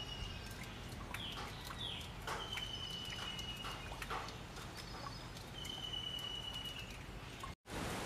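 A bird calling in long whistled notes, three of them, each falling slightly in pitch, with a few short downward-swept calls between them, over faint background noise and scattered clicks. The sound drops out completely for a moment near the end.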